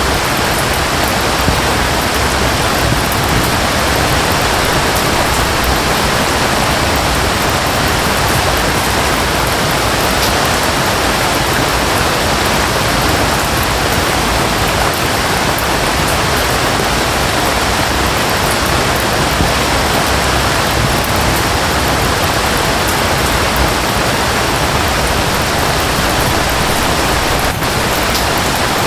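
Rain falling and a waterfall running together, a steady, unbroken wash of water noise.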